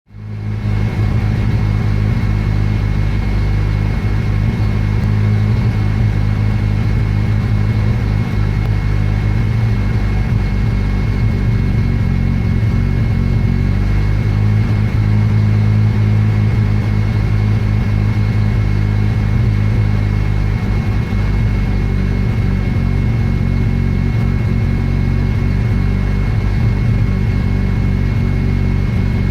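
Mazda RX-7 rotary engine, on points ignition, running steadily with some flicker in its note. It is an engine that will not settle to a proper idle.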